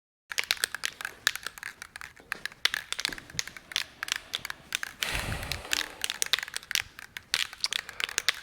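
Rapid, irregular crinkling and clicking of something being handled. It starts suddenly about a quarter second in and thickens briefly into a fuller rustle about five seconds in.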